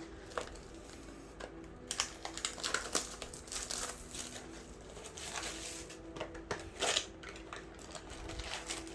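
Crinkling of a foil booster-pack wrapper and the clicks and slides of trading cards being handled, in short irregular bursts.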